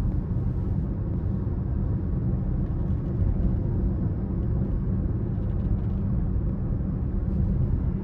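BMW X5 30d's straight-six diesel engine and tyres giving a steady low rumble while the car cruises at an even speed.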